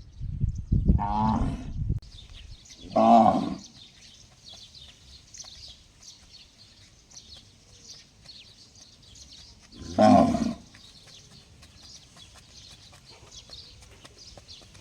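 Cow calling: a rising call about a second in over a low rumble, then two short, loud calls, the first about three seconds in and the second about ten seconds in.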